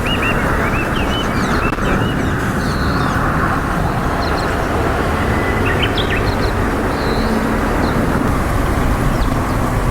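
Small birds chirping in short high calls, mostly in the first couple of seconds and again about six seconds in, over a steady low rumble of background noise.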